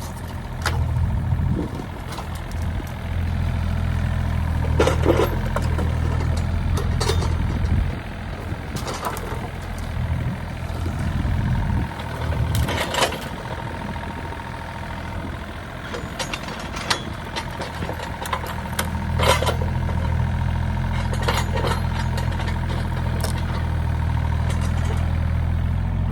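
An engine running steadily, its hum easing off in the middle and coming back up later. Scattered sharp knocks and clicks sound over it.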